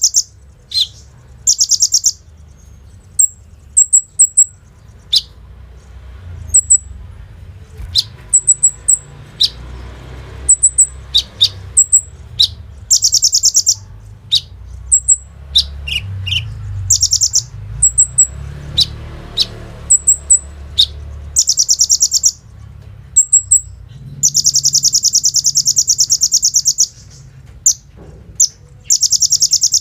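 Kolibri ninja sunbird singing: short, very high chips broken by loud, rapid machine-gun trills, with one long trill lasting about three seconds near the end.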